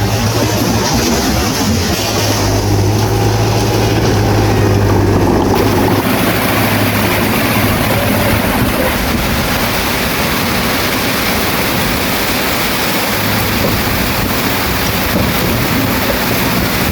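Bulldozer's diesel engine running with a steady low hum, under a dense, constant hiss that becomes brighter about five seconds in.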